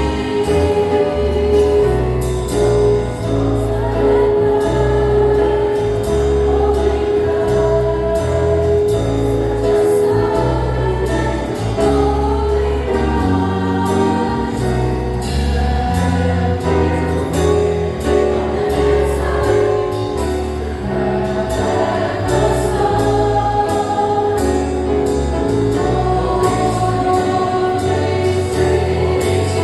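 Church choir singing a jazz-style Christmas song with band accompaniment, held sung notes over a bass line that steps from note to note with light percussion.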